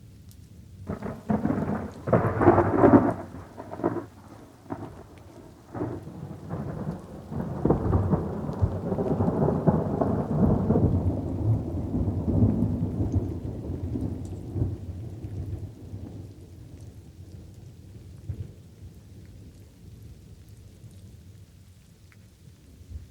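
Thunder over light rain: a series of sharp crackling thunderclaps in the first few seconds, loudest about two to three seconds in, then a long low rolling rumble that slowly fades away.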